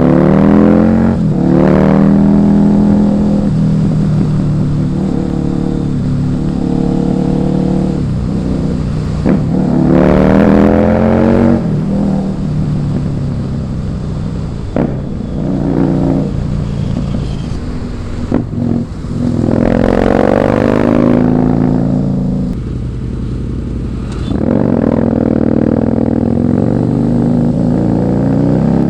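Husqvarna Nuda 900R's parallel-twin engine under way, pulling hard several times with its pitch climbing through the revs and then falling at each gear change. In between it runs at steadier revs.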